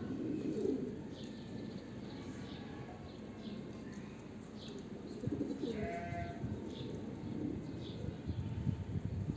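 Homing pigeons cooing in a loft: low, warbling calls that come and go, with short higher chirps and a louder stacked call about six seconds in.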